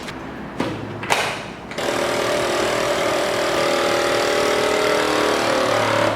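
Two clicks, then a vacuum sealer's pump motor running steadily for about four seconds, drawing the air out of the bag before it stops.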